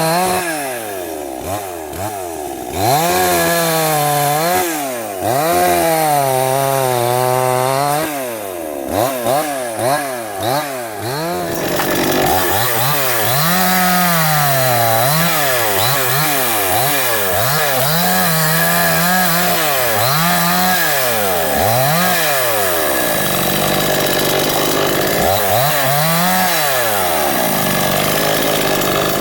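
Salemmaster gasoline chainsaw's two-stroke engine revving up and down over and over, its pitch climbing and falling back every second or two.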